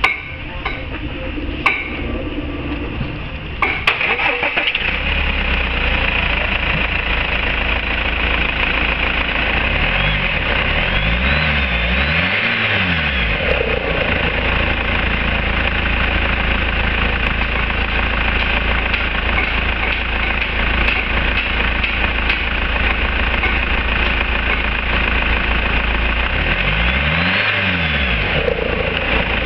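An engine starts about four seconds in after a few clicks, then runs steadily, its pitch rising and falling twice.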